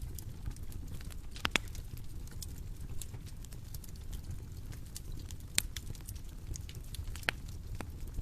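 Bonfire crackling: a low steady rumble of burning wood under scattered sharp pops and snaps, the loudest pops about one and a half seconds in, just past the middle, and near the end.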